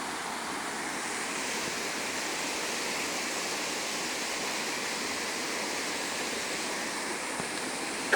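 Mountain stream water rushing steadily, with one short sharp tick right at the end.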